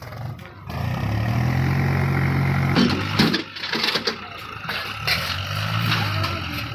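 Tractor engine starting up and running steadily, with a clatter about three seconds in and a brief rise and fall in revs near the end.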